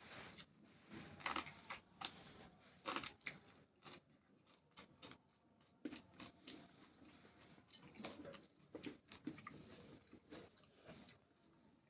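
Someone biting and chewing raw vegetables: irregular faint crunches, the loudest about a second and three seconds in, with smaller chewing crunches after.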